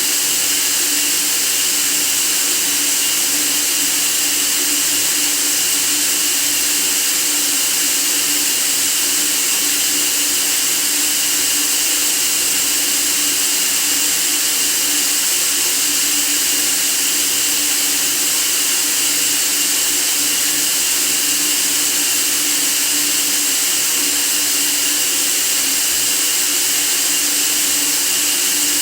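Steady white noise: an even, unchanging hiss weighted toward the high end, with a faint steady hum beneath it.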